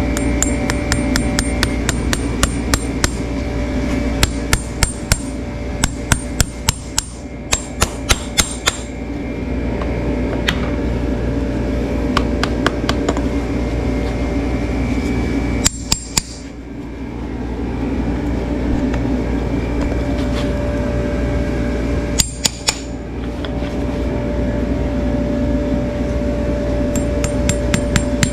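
A farrier's hammer tapping in quick runs of sharp strikes, several a second, with pauses between the runs, over a steady hum.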